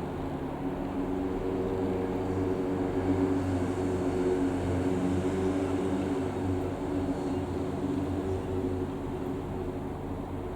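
Light propeller aeroplane flying over, its engine drone growing louder for a few seconds and then fading away.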